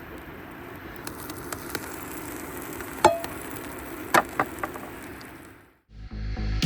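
Portable propane fire pit burning just after being lit: a steady hissing flame with a few sharp pops. It cuts off about six seconds in, and music begins.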